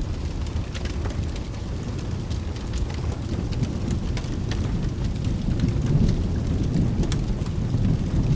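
Steady rain with a low rolling rumble of thunder that swells about halfway through and peaks near six seconds. Scattered sharp crackles and drips sound over it.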